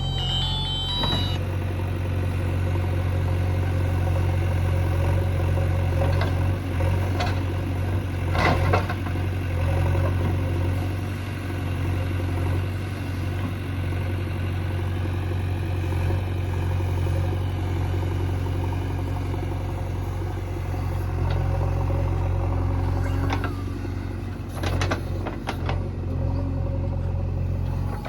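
JCB 3DX backhoe loader's diesel engine running steadily, with a few sharp knocks now and then, twice in clusters.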